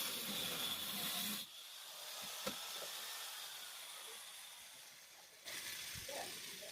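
A steady hissing, rubbing noise that drops in level about a second and a half in and picks up again near the end, with a single knock in the middle.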